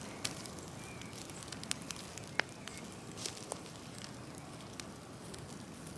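Large open wood fire of cut trees and branches crackling, with scattered sharp pops over a steady hiss. The loudest pop comes near the middle.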